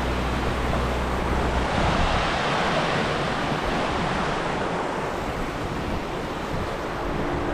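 Steady, loud rushing noise with no distinct events. Low held music tones fade out about a second and a half in.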